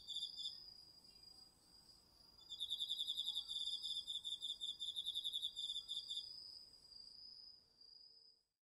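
Autumn insects singing. A cricket's pulsing trill stops about half a second in and returns from about two and a half to six seconds in, over another insect's steady, high-pitched trill. Everything cuts off suddenly near the end.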